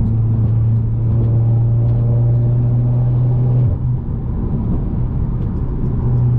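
Turbocharged Mercedes C250's engine droning at steady revs under cruise, with road noise underneath. The engine tone drops away abruptly just under four seconds in, as when lifting off the throttle, and comes back near the end.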